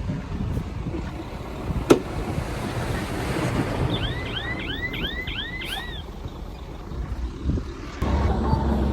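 Heavy earthmoving machinery rumbling at a worksite, with a sharp click about two seconds in and a quick run of high chirps around the middle. Near the end the engine sound suddenly steps up to a louder, steady low hum.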